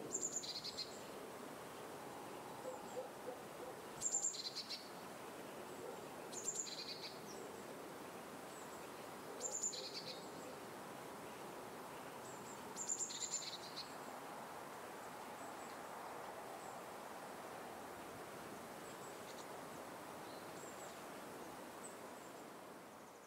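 Outdoor ambience: a bird calling in short, high two-note chirps, five times in the first half and fainter later, over a steady background hiss.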